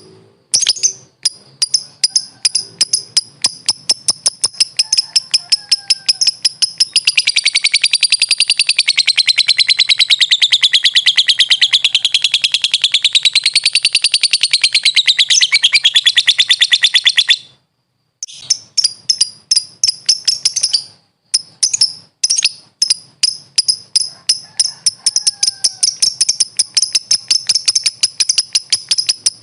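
Lovebird (Agapornis) calling with rapid, high-pitched chirps. About seven seconds in it breaks into a long, unbroken fast trill that wavers up and down in pitch for some ten seconds, the drawn-out chatter that keepers call 'ngekek'. The trill cuts off, and after a brief pause the quick chirping resumes.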